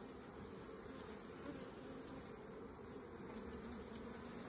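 Steady buzzing hum of a mass of honeybees at an opened hive.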